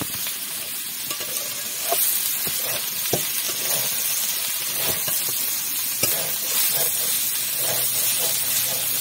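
Sliced green figs and potato chunks sizzling in hot spiced oil in a metal kadai while a spatula stirs and scrapes them, with scattered knocks of the spatula against the pan. The frying gets louder about two seconds in.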